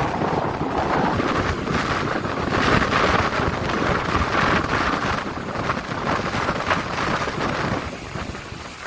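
Strong gusting wind buffeting the microphone, in irregular surges.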